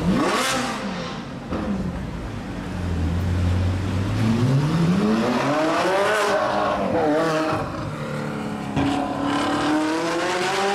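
Supercar engine revving and accelerating: a quick rev right at the start, a low steady idle, then the pitch climbs and drops back several times.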